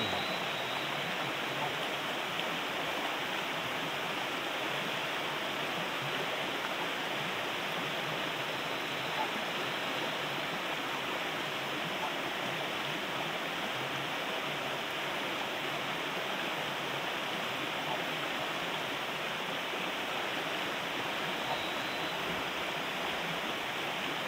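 Steady rushing of water from a river and heavy rain, with a faint tick about nine seconds in and another near the end.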